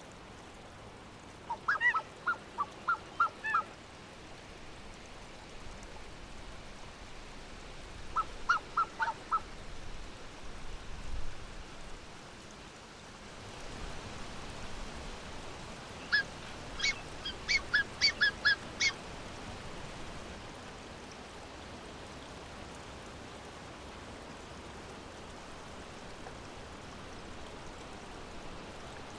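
Black-necked swans calling in three bouts of quick, repeated honking notes, about three or four notes a second. The last bout, about two-thirds of the way through, is the longest and highest. A steady hiss of background noise runs underneath.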